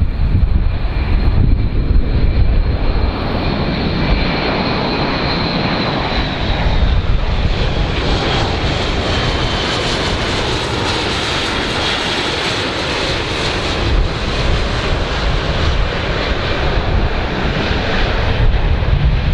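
A large airplane's engines running loudly with a steady roar and a high whine that slowly drops in pitch, over a low rumble of wind on the microphone.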